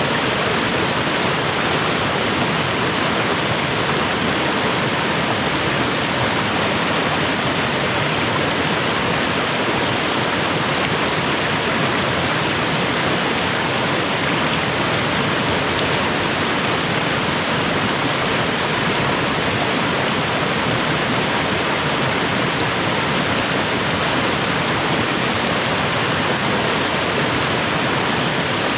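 Mountain creek and its small waterfalls rushing steadily, a loud, even wash of water.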